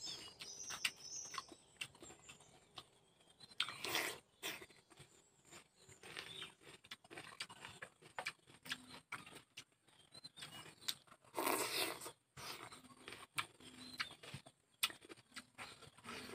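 Close-up chewing and crunching of a fish and raw vegetable salad, as many small wet clicks and crunches. Two longer, louder crunches come about four and twelve seconds in.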